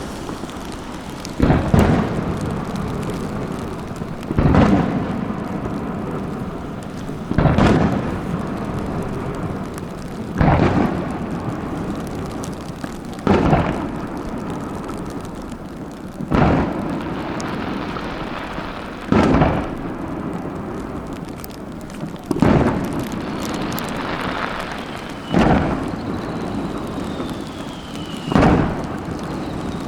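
Aerial fireworks shells bursting in a steady sequence: a heavy boom about every three seconds, ten in all, with rumbling echo between the bursts.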